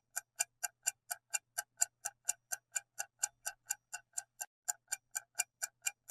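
Quiz countdown-timer ticking like a clock, about four sharp ticks a second, marking the time the viewer has to pick an answer.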